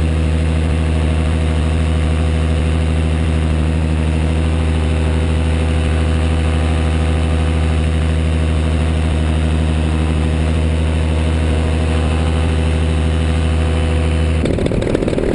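Paramotor engine running at a steady speed in flight, a constant drone. About 14 seconds in it switches suddenly to a rougher, noisier engine sound.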